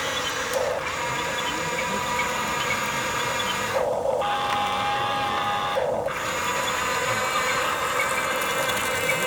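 Small electric motors and gearboxes of RC construction models running with a steady whine, changing pitch abruptly twice.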